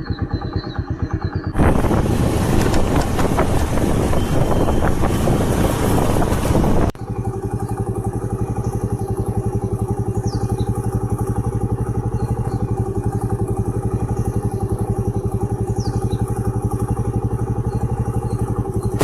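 A vehicle engine running steadily with rapid, even firing pulses. Heavy wind noise buffets the microphone for about five seconds starting near the second second, then drops away.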